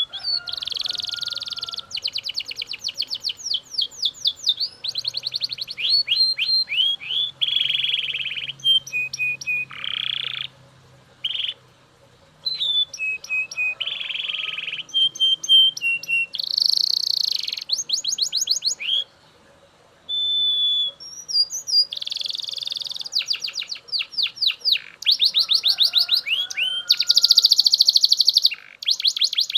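Male Belgian canary singing a long, loud song of fast trills and rolls mixed with short whistled notes, with brief pauses about ten and nineteen seconds in.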